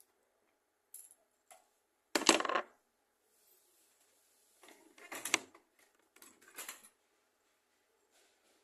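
Small metal objects clinking and clattering in about five short bursts, the loudest a little over two seconds in.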